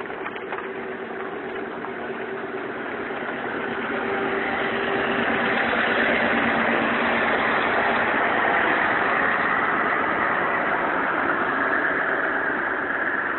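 Scania 143 truck's V8 diesel engine running through a straight exhaust pipe, growing louder about four seconds in and holding there.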